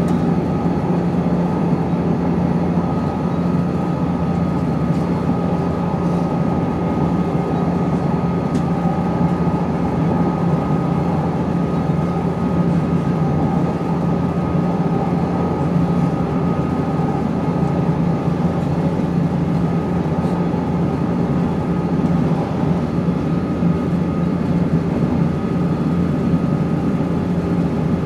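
Cabin sound of a Class 170 Turbostar diesel multiple unit under way: a steady running drone with a high whine held throughout, over the general running noise of the train.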